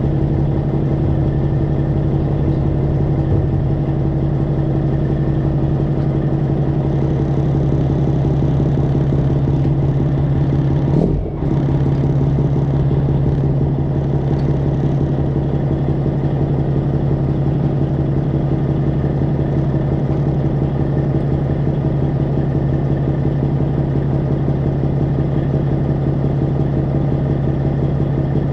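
Straight-piped Freightliner Classic XL's Detroit Diesel 12.7-litre engine idling steadily, with a brief break about eleven seconds in.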